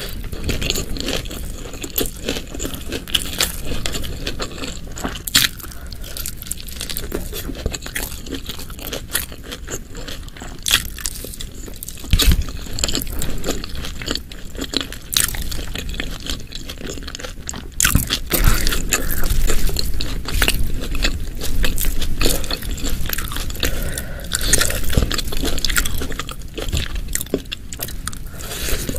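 Close-miked eating: a person chewing and biting spicy shredded chicken, beef-fat satay and rice, a dense run of small crunches and mouth clicks. There is a low thump about twelve seconds in, and the chewing is louder through the second half.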